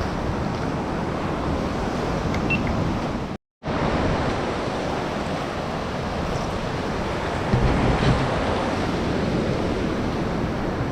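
Ocean surf washing on a beach, a steady rush, with wind buffeting the microphone and a stronger low surge about two-thirds of the way in. The sound cuts out completely for a moment about a third of the way in.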